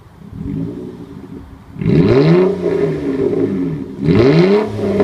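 2008 Nissan Altima 3.5's VQ35DE V6 revved through an open exhaust cutout with the muffler deleted, loud and raspy. A small blip about half a second in, then two sharp revs about two and four seconds in, each climbing fast and falling back toward idle.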